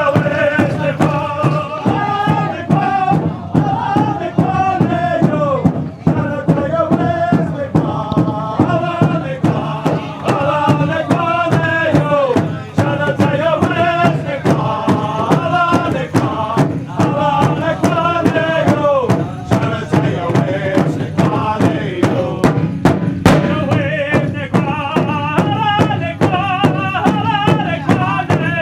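Powwow drum song: a group of voices chanting over a steady, evenly spaced drumbeat.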